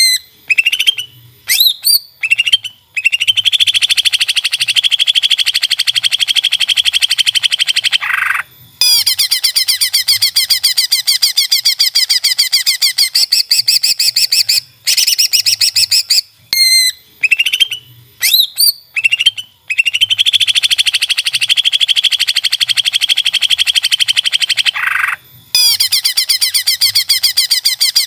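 Greater green leafbird (cucak ijo) singing loudly: a few sharp, sweeping chirps followed by long, very rapid high trills, each several seconds long with brief breaks between them. The same phrase sequence comes round again about halfway through, as in a looped training recording.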